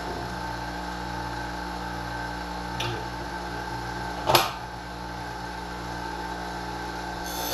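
Motor of a Wolff Twice As Sharp (Model A1) scissor sharpener running with a steady hum. A faint click comes a little under three seconds in, and a louder sharp click follows at about four and a half seconds.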